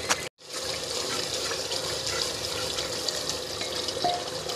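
Beef masala in oil sizzling and bubbling steadily in an open pressure cooker, at the frying stage after the spices go in. A sharp click right at the start is followed by a brief cut-out of all sound.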